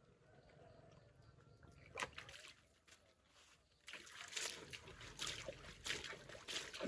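Water splashing and sloshing by hand: a quiet trickle with one sharp knock about two seconds in, then a quick run of irregular splashes from about four seconds in.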